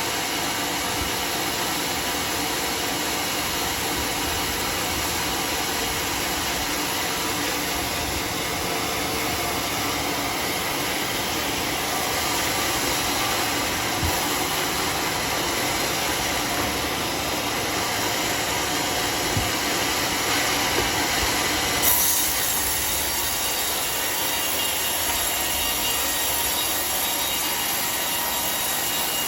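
Sawmill blade cutting through a teak log: a steady, loud machine noise with a ringing whine, growing brighter and more hissing about three-quarters through.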